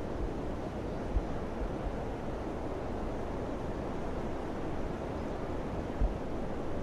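Wind blowing steadily, a low rushing noise, with two brief low thumps of wind hitting the microphone, about a second in and near the end.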